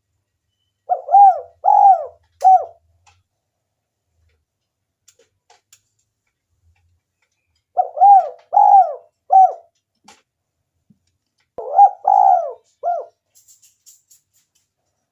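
Spotted dove cooing in three short phrases, each of three or four arched coos, the first about a second in, the next two near the end. It is a recorded call of the kind played to lure wild spotted doves into calling.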